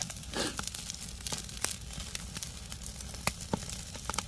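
Semi-dried sea bass grilling over a wood fire: the fire crackles with irregular sharp pops, and there is a short rustling noise about half a second in.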